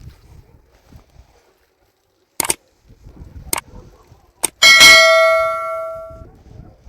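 A few sharp clicks, then a metal object struck once, clanging and ringing out like a bell before it fades over about a second and a half.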